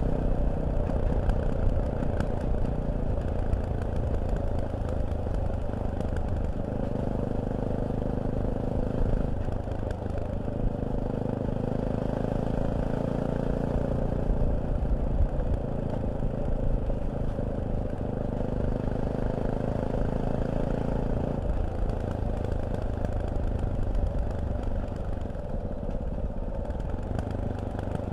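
Fantic Caballero 500's single-cylinder four-stroke engine running at low revs, its note shifting to a new steady pitch several times.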